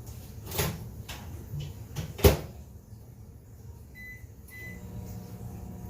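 A knock, then a microwave oven door shut with a loud clunk. Two short keypad beeps follow, and the microwave starts running with a steady hum.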